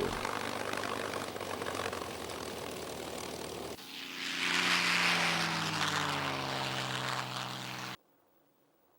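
Piston-engined propeller aircraft running steadily, then, after a cut about four seconds in, flying past louder with its engine note slowly dropping in pitch. The sound stops abruptly about a second before the end.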